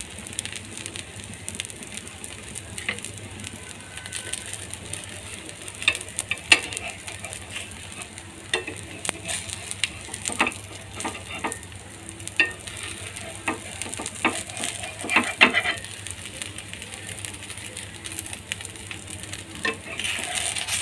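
Semolina pancake frying in a little oil on a nonstick tawa, a steady sizzle. A metal spatula scrapes and taps against the pan in a run of sharp clicks from about six seconds in until about sixteen seconds in.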